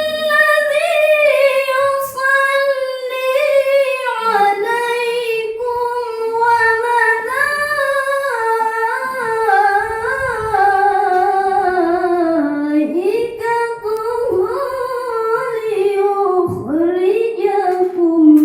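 A woman reciting the Quran in the melodic tilawah style, holding one long ornamented phrase that sinks slowly in pitch, with two brief dips in the later part, and breaks off near the end.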